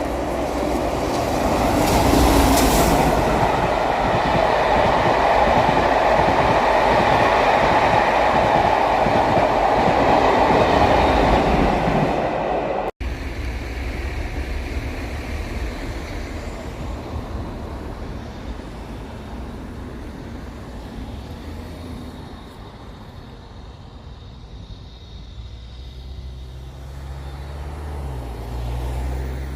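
A train passing at speed, a loud rushing rumble that peaks about two seconds in and holds. After an abrupt cut, a quieter rumble with a steady low engine drone follows, which shifts in pitch near the end.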